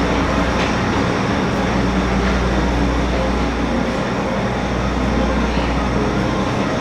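A passenger ferry's diesel engines running with a steady low drone, heard on board.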